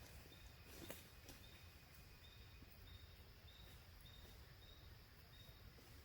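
Near-silent outdoor ambience with a faint high chirp repeating about every half second and a single soft click about a second in.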